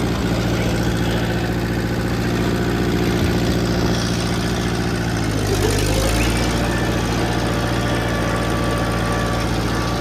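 Old Ford tractor engine idling steadily, with a brief dip in engine speed a little past halfway.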